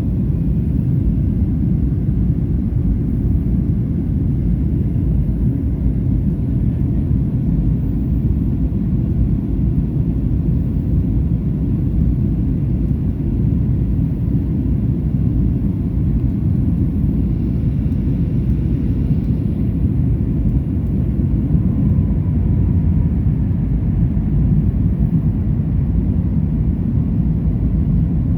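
Steady, low cabin rumble inside a Boeing 737-800 airliner in flight, from its CFM56 jet engines and the airflow over the fuselage.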